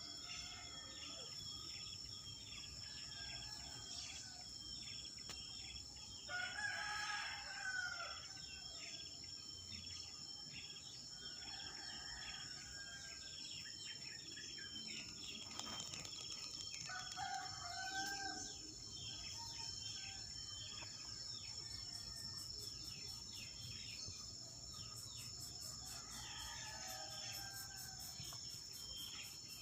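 Outdoor bird and insect sound: a crowing bird call comes four times, each lasting a second or two. Underneath runs a steady high-pitched insect drone with rapid small chirps.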